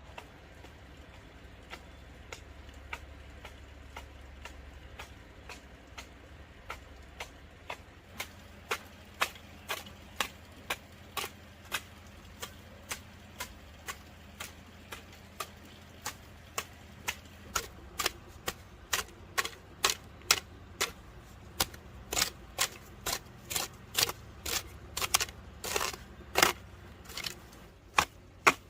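A hand tool striking wood in a steady run of sharp knocks, about two a second, starting faint and growing louder over the stretch.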